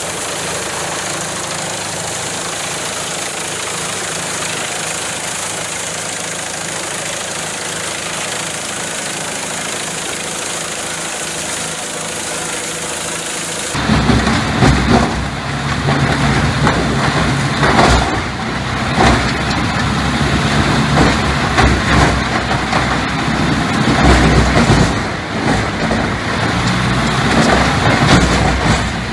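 A heavy machine's engine running steadily. About halfway through it cuts to louder, uneven machinery working, with a deep rumble and repeated knocks and cracks.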